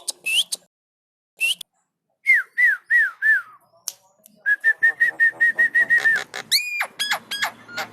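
Javan myna singing a string of clear whistled notes: a couple of short rising whistles, four falling slurred notes, then a quick run of about a dozen short whistles on one pitch, ending in a steep upward sweep and a few sharp clicks.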